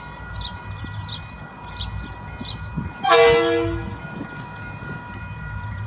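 A single short horn blast about three seconds in, loud and fading out over under a second, over a steady low rumble.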